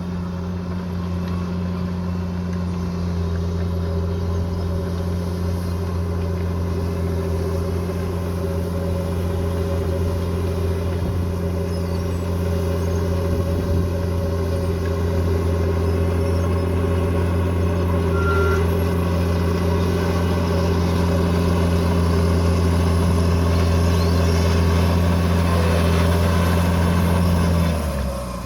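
Diesel engine of heavy earthmoving machinery running steadily at a constant speed, with a low, even drone. The sound dips briefly just before the end.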